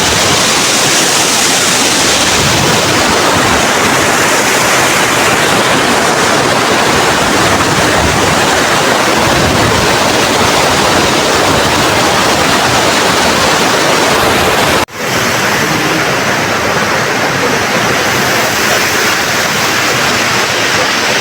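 Loud, steady rush of a fast-flowing river. It breaks off for an instant about 15 seconds in, then carries on.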